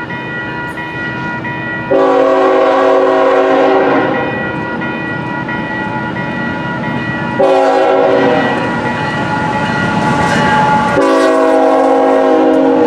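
Diesel locomotive air horn blowing three blasts: a long one about two seconds in, a shorter one that fades away around the middle, and another long one near the end. A bell rings steadily beneath, over the rumble of the passing train.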